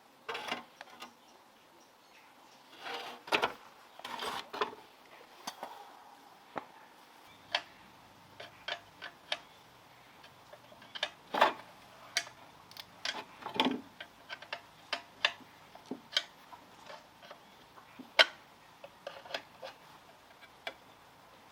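Irregular clicks and knocks of tools and small metal engine parts being handled and set down during work on a small gasoline engine, with a few louder clusters of knocks about three seconds in and again past the middle.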